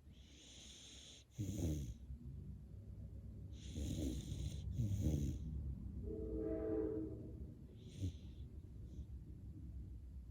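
Golden retriever snoring in its sleep: a run of noisy breaths, three of them louder and rough, about a second and a half apart in the middle. Around six seconds in, one breath carries a short whine-like note.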